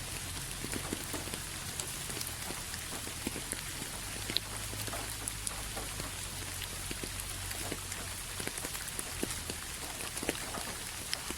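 Steady rain falling, with individual drops ticking sharply and irregularly through the even patter.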